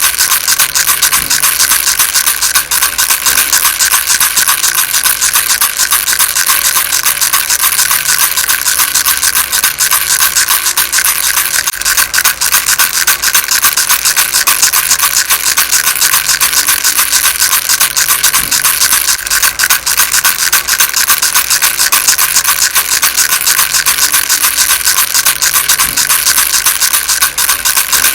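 Baby rattle shaken without pause: a fast, dense, steady rattling.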